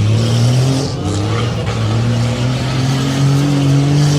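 A tough-truck competition vehicle's engine running hard under full throttle, its pitch climbing slowly and steadily as it accelerates.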